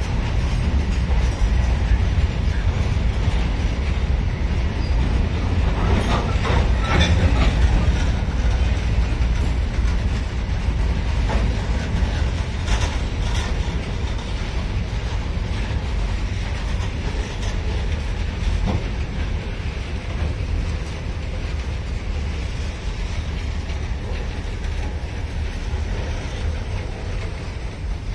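Freight train of loaded flat wagons rolling past at slow speed: a steady rumble of wheels on rail, with a couple of brief sharper noises about six and thirteen seconds in.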